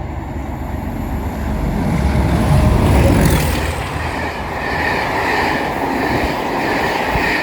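Class 31 diesel locomotive passing through the station at speed: the engine's heavy rumble builds to its loudest about three seconds in as it goes by. After that comes a steadier wheel-and-rail noise with a higher ringing edge, easing off at the very end.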